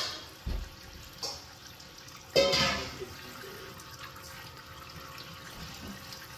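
Tap water running steadily into a sink where a parrot is bathing, with a few short louder sounds over it, the loudest about two and a half seconds in.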